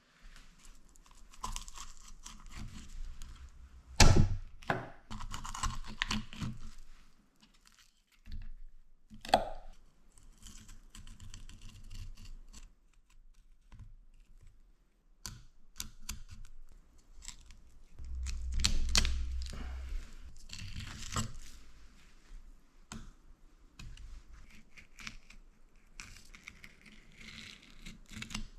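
Handling noises of fish being prepared in a kitchen: rustling and tearing, scattered clicks, a sharp knock about four seconds in, and a longer stretch of rustling past the middle.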